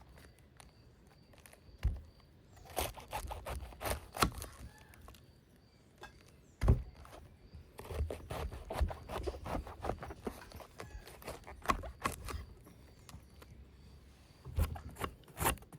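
Food-preparation handling sounds: scattered knocks, clicks and rustles, with one loud knock about halfway through.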